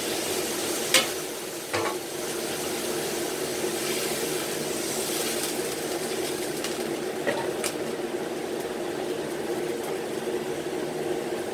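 Chicken wings sizzling steadily in a frying pan, with a sharp clack about a second in and another just after.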